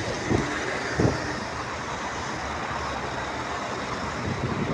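Steady city street traffic noise, with two short low knocks in the first second.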